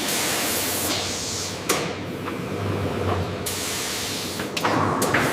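Steady spray-like hissing that shifts abruptly in tone a few times, with a single sharp click about a second and a half in.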